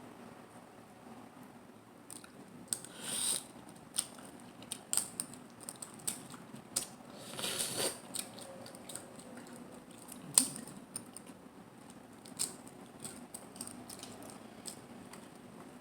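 A person eating close to the microphone: chewing with scattered wet clicks and snaps, and two longer noisy stretches about three and eight seconds in. A single sharp click about ten seconds in is the loudest sound.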